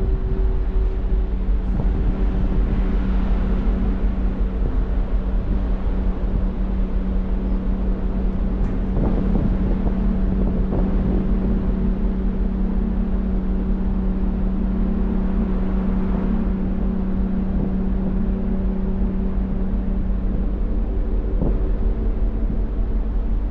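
A large passenger ferry's engines drone steadily under way, a constant low hum with a faint rushing noise over it.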